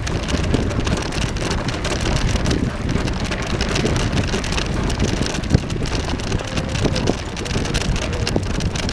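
Bicycle tyres rolling over a bumpy unpaved path, a steady crunching crackle with rattles and low rumble, with wind on the microphone.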